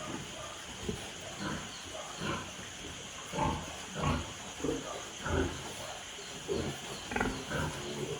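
A pig grunting, short irregular grunts roughly one a second.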